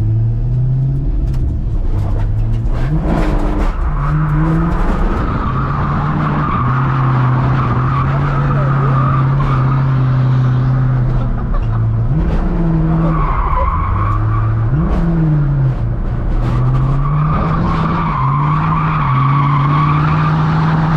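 Chevrolet C5 Corvette drift car's LS1 V8 held at high revs, dropping and climbing again a couple of times, with tyres squealing in stretches as the car slides.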